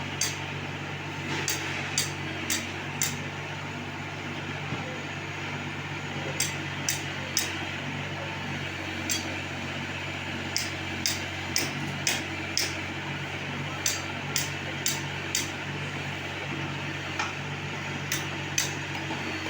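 Tractor-mounted loader's engine running steadily, with many short sharp clicks and clinks scattered irregularly over it, some coming in quick pairs.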